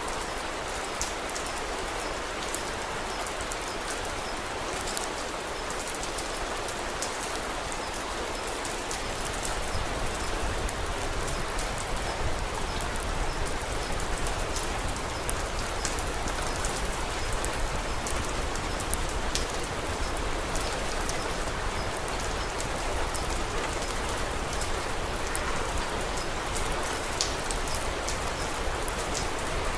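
Steady rain falling, with scattered sharp pops and crackles of a wood fire over it. The rain grows a little fuller and deeper about nine seconds in.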